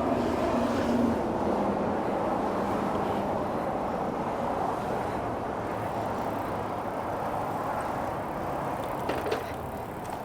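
Traffic on the I-95 interstate highway, a steady rush of tyres and engines from passing cars and trucks, slowly fading.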